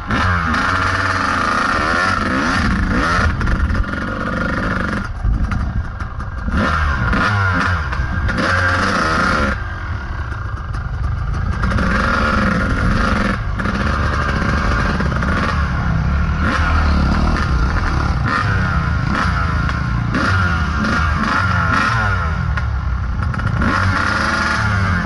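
Kawasaki KDX220 two-stroke dirt bike engine, revved up and down as the bike is ridden, with some clatter. The throttle eases off briefly about five seconds in and again for a couple of seconds around ten seconds in.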